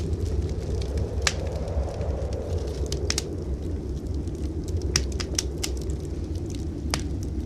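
Wood fire crackling in a fireplace, with irregular sharp pops, over a steady low rumble of blizzard wind.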